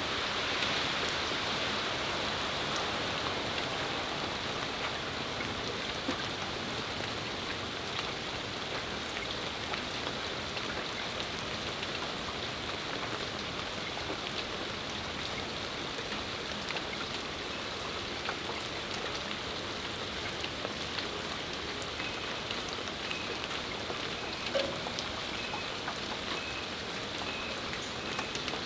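Steady rain falling and pattering on patio surfaces, a continuous hiss with scattered drop ticks, a little louder at the start before it eases slightly. In the last few seconds a faint high note repeats about twice a second above the rain.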